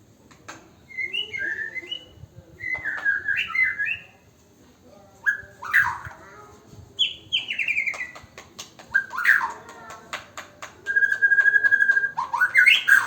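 A bird calling in a run of whistled chirps and sliding notes, with a run of rapid clicks partway through and a steady trill near the end.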